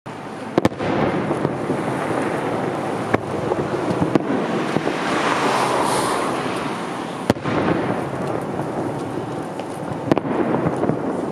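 Fireworks display: sharp bangs of shells bursting, half a dozen or so spread a second or more apart, over a continuous dense crackle that swells around the middle.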